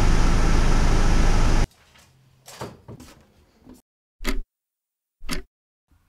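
Electric desk fan running loudly with a steady motor hum, cutting off abruptly about two seconds in. Some softer rattling follows, then two short thumps about a second apart.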